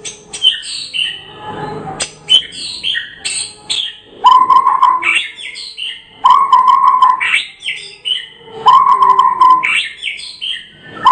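White-rumped shama (murai batu) singing a continuous, varied song of fast whistled phrases, quick ticking trills and sliding notes. Three times it holds a steady lower note for about a second.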